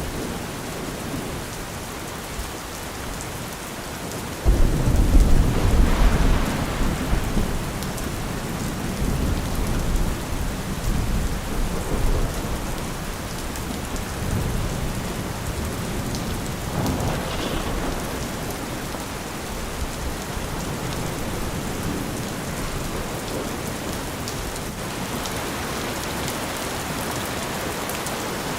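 Steady rain falling, with a roll of thunder that breaks in suddenly about four seconds in and rumbles on for several seconds, fading away by about the halfway point.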